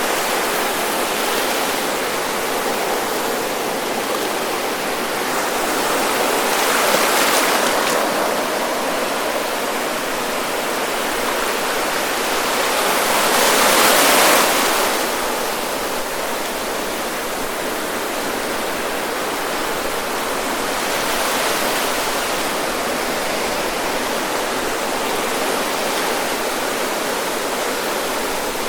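Ocean surf breaking and washing up on a sandy beach, a continuous rush of waves. It swells louder about seven seconds in, and most strongly around fourteen seconds in as a larger wave breaks.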